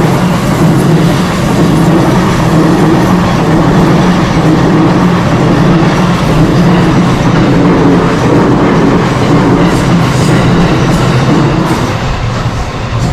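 Electric commuter train passing close by, a loud steady running noise with a low hum and wheel clatter on the rails, easing off near the end.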